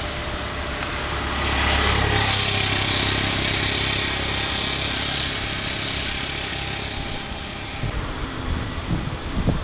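Road traffic noise, with a vehicle swelling past about two seconds in. Near the end, wind buffets the microphone in irregular low gusts.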